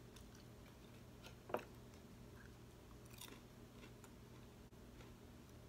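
Faint chewing of a mouthful of fried rice, with one short sharp clink of cutlery on the plate about a second and a half in and a few fainter clicks later.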